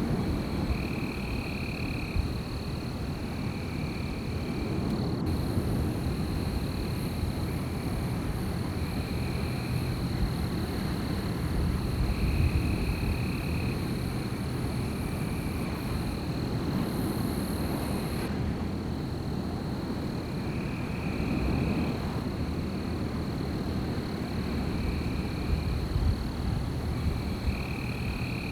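Wind blowing in a night forest, a steady low rush, with a thin unbroken high-pitched drone and short repeated high calls every second or two.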